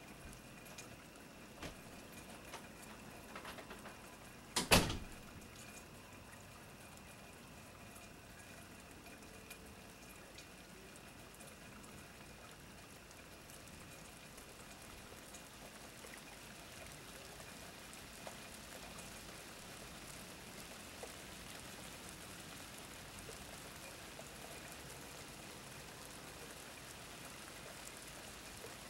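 Steady rain falling, growing slightly heavier in the later part. One sharp knock about five seconds in.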